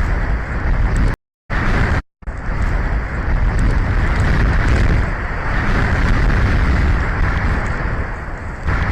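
Strong wind rushing over the microphone, a steady, dense roar. It is broken by two brief cut-outs to silence in the first two seconds.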